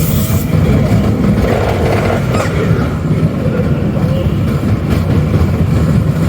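Small roller coaster's car rumbling steadily along its track.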